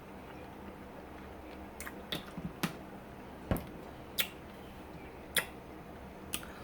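Close-up mouth sounds of someone chewing a mustard-coated strawberry: irregular wet clicks and smacks, about seven of them, starting around two seconds in, with the strongest one midway.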